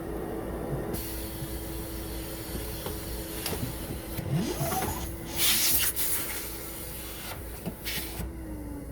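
A central vacuum runs with a loud rush of air while its retractable hose is sucked back into the wall inlet. A steady motor hum sits underneath. Near the end the air noise stops and the hum drops in pitch as the suction shuts off.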